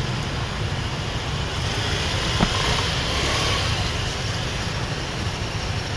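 Riding a motorbike through city traffic: a steady low engine and road rumble with traffic noise, a hiss that swells and fades around the middle, and one short knock about two and a half seconds in.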